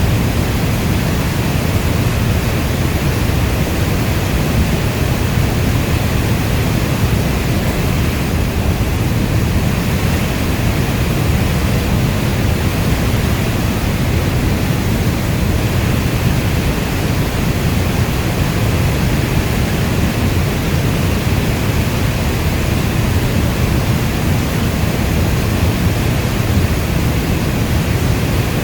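Heavy rain falling steadily: a deep, even hiss weighted to the low end, with no separate drops or thunderclaps standing out.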